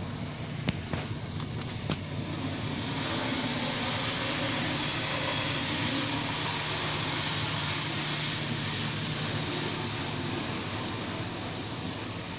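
Autec in-bay automatic car wash running: a few clicks, then a steady rushing hiss of water spray that builds over about two seconds and eases off near the end, over a low steady hum.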